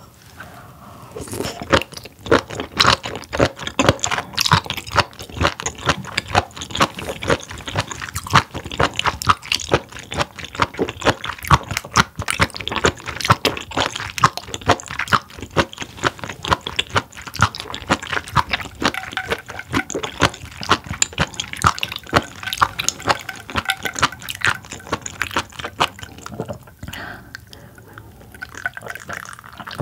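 Close-miked wet, clicky chewing of spoon worm (gaebul), a dense run of squelches and crunches that thins out near the end as she drinks from a glass.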